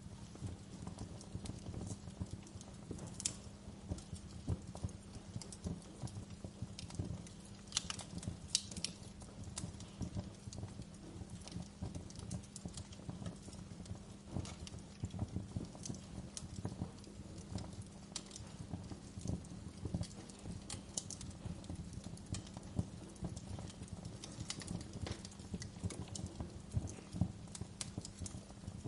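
Fire burning in a fireplace: a steady low rumble under dense soft crackling, with a few sharp pops scattered through.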